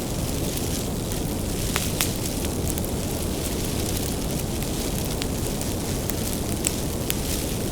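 Firewood bonfire burning: a steady low rush of flame with scattered sharp crackles and pops from the burning wood.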